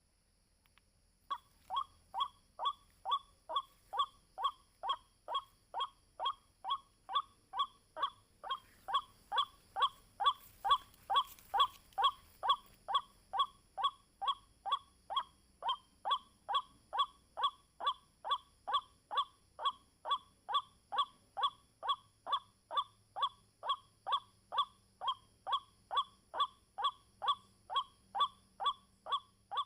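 White-breasted waterhen (ruak-ruak) calling: a fast, even series of short, falling croaking notes, about two a second, starting about a second in.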